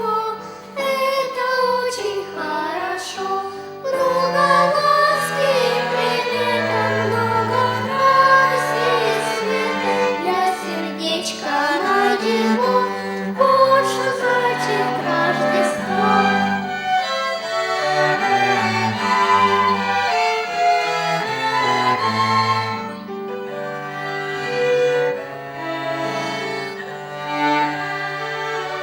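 Violin ensemble playing a song melody in sustained bowed notes over a moving lower line.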